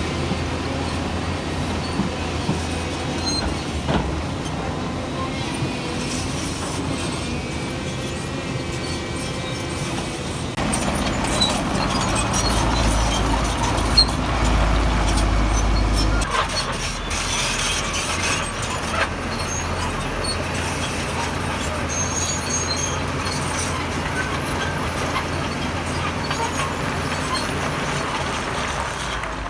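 Diesel engines of heavy earthmoving machinery running, louder and deeper for a few seconds in the middle, with a few short knocks.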